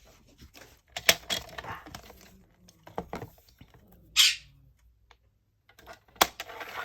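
Paper and tools handled on a desk: a few sharp clicks and taps, and one short hissing rustle about four seconds in.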